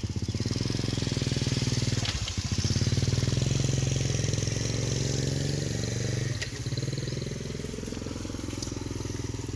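Motorcycle engine running under way, its pitch dipping and picking up again twice as the rider eases off and accelerates.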